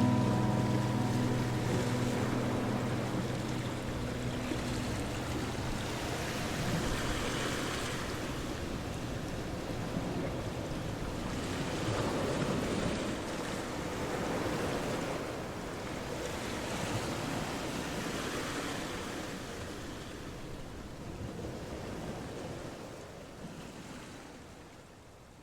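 Ocean surf washing on a shore, rising and falling in slow swells every few seconds, the whole sound fading down near the end. Music tones trail off in the first few seconds.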